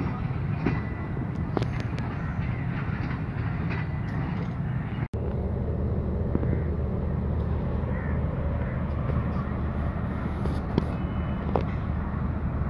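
Passenger coaches rolling away over the tracks, with scattered wheel clicks over rail noise. About five seconds in, the sound cuts to the steady low idle of a Pakistan Railways GEU20 diesel-electric locomotive standing at the platform.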